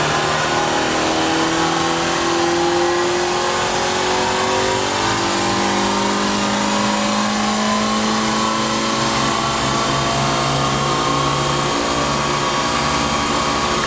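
Renault Clio 197's naturally aspirated 2.0 four-cylinder engine running hard on a rolling-road dyno, its pitch climbing slowly and steadily as it pulls up through the revs. On this run the VVT, the team suspect, is not crossing over because of low battery voltage.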